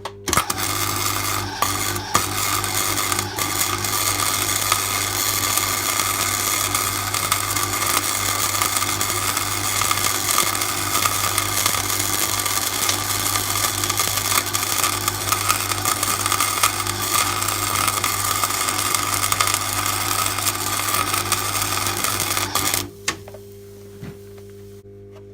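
MIG welder arc crackling steadily while laying weld to build up metal around a worn pin bore; it stops about 23 seconds in, leaving a low steady hum.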